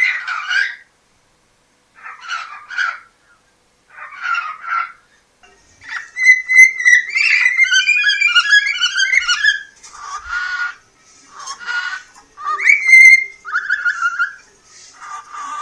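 A cockatiel vocalising. It gives a few short scratchy chattering phrases, then several seconds of fast warbling whistled song in the middle, then more short phrases with a clear whistle.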